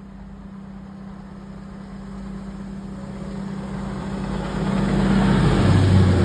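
A train approaching, with a steady humming running note that grows steadily louder and fuller, a deeper tone joining near the end.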